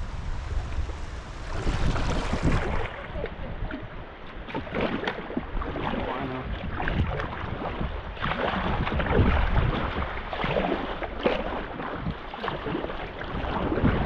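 Water splashing and sloshing around a kayak being paddled down a river, in many short irregular splashes, with wind rumbling on the microphone.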